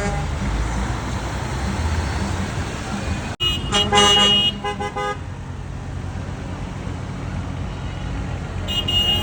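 Parade trucks' engines running past in a steady low drone, with several short horn blasts just after a brief cut about a third of the way in, and another horn toot near the end.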